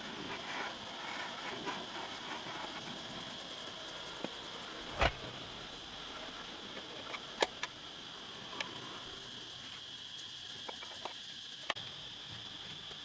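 A few scattered sharp knocks and clicks, the loudest about five seconds in, over a steady high hiss.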